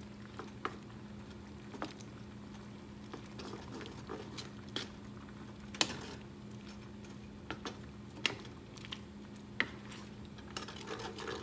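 Wooden spatula stirring chicken pieces in a thick cream sauce in a frying pan: soft scraping and squishing, with a few sharp taps of the spatula against the pan. A steady low hum runs underneath.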